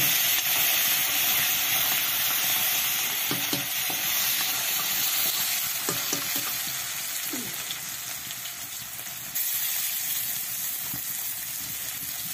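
Wet paste sizzling in hot oil in a black iron kadai while a metal ladle stirs and scrapes it. The sizzle starts loud and slowly dies down.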